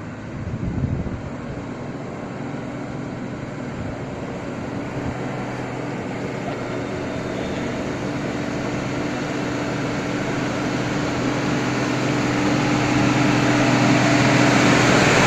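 Truck engine running steadily, growing louder as the truck draws closer.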